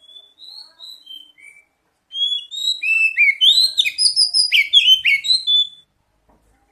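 Oriental magpie-robin song: a few soft whistled notes in the first second and a half, then a loud, rapid run of varied whistles and chirps from about two seconds in until nearly six seconds.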